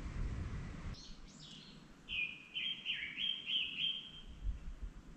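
A songbird calling in woodland: a few high chirps about a second in, then a quick run of clear, stepping notes between about two and four seconds. Before the calls, a low rumbling noise cuts off suddenly about a second in.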